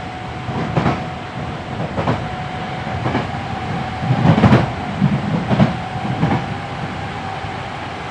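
Hankyu 7300 series electric train running, heard from inside the car at floor level: a steady rumble with a thin steady whine, broken by wheels clacking over rail joints about once a second. The clacks are heaviest a little past halfway.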